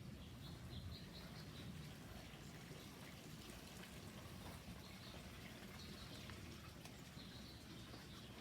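Faint bird chirping: short, high notes repeated in runs, more of them near the end, over a low steady rumble.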